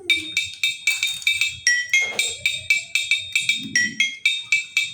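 Toy metal-bar xylophone struck quickly with a mallet, about five high ringing notes a second, mostly repeating a few neighbouring notes.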